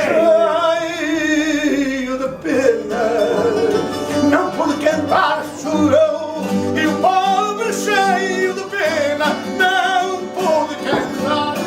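Fado: a male voice singing long, wavering notes with vibrato over plucked Portuguese guitar and viola de fado accompaniment.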